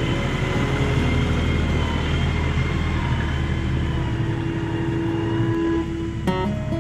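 A motor vehicle's engine running steadily while driving, its low drone shifting slightly about four seconds in.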